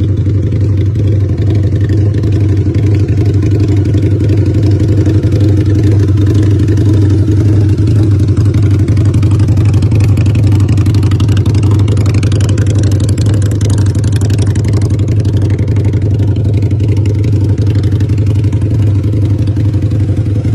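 Motorcycle engine running at a steady, even low note, without revving.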